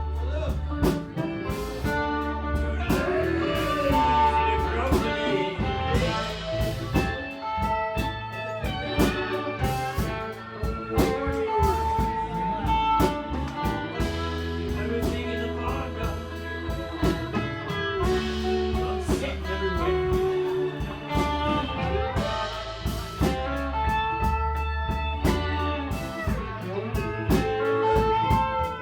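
Live band playing with guitar, bass and drum kit.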